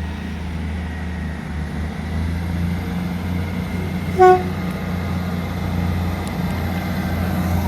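Train running with a steady low rumble, and one short horn toot about four seconds in.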